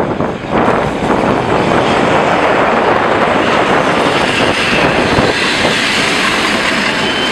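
2TE116 diesel locomotive passing close at speed, its engine noise giving way to the steady rumble of the test train's coaches rolling by on the rails.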